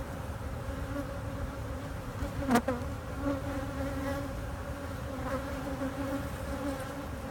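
Honeybees buzzing steadily around an opened hive, a continuous hum, from a colony the beekeeper suspects may be queenless. A brief sharp click comes about two and a half seconds in.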